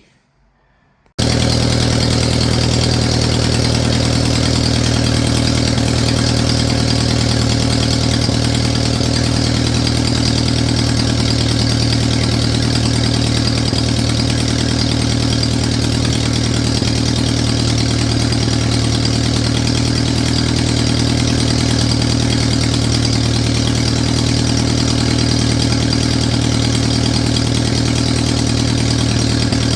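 Ferguson TEA20 tractor's four-cylinder petrol engine idling steadily, cutting in abruptly about a second in. It is running on the repaired Zenith carburetor, whose badly worn throttle shaft the owner says leaks vacuum and spoils the idle.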